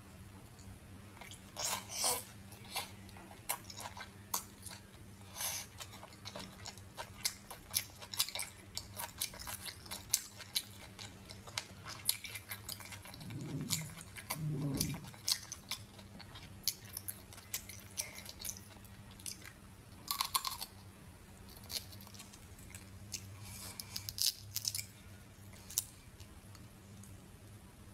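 Close-miked chewing: irregular wet clicks, smacks and small crunches of a mouthful of food, over a faint steady low hum.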